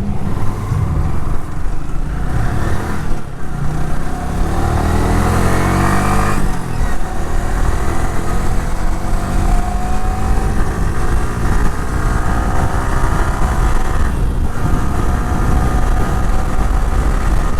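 Motorcycle engine accelerating while riding: its pitch climbs, drops at a gear change about six seconds in, then climbs slowly again, under a steady low wind rumble on the microphone.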